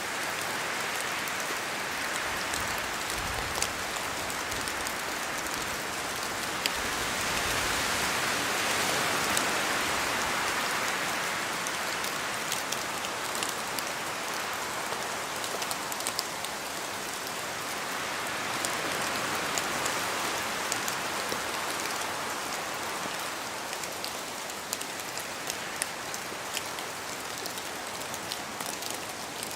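Steady rain in a forest, with many drops pattering on leaves and the ground, swelling and easing in slow waves as the wind gusts.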